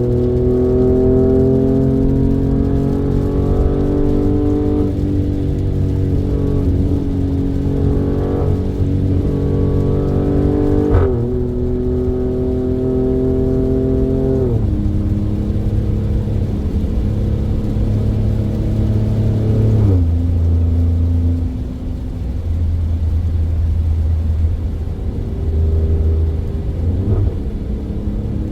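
Alfa Romeo Stelvio Quadrifoglio's twin-turbo 90-degree V6, fitted with K&N air filters, pulling through the gears: the engine note climbs slowly, drops sharply at each of three upshifts, then runs steadily at lower revs.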